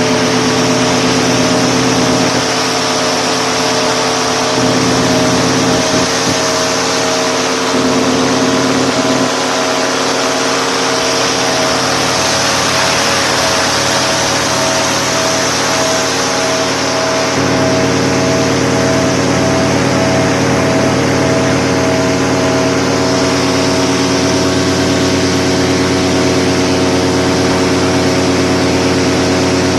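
An engine running steadily at an even pitch, with a pulsing tone over it and a high hiss, shifting slightly in tone a few times.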